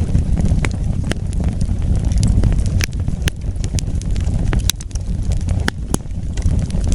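Wood fire burning, with a steady low rumble of flames and sharp crackles and pops at irregular intervals, about a dozen in all.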